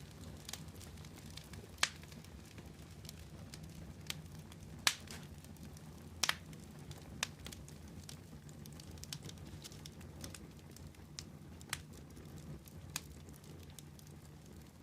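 A fire crackling: sharp, irregular pops and snaps, the loudest every second or two, over a steady low rumble.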